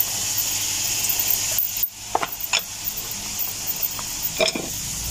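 Oil sizzling steadily as masala fries in a wok, with a wooden rolling pin rolling out roti dough on a steel counter. The sizzle breaks off briefly just before two seconds in, and a few short knocks follow.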